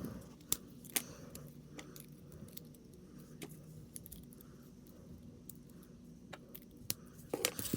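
Small plastic figure parts being handled and clicked together on a snap-fit model kit: a few scattered sharp clicks, with a quick run of them near the end, over a faint steady hum.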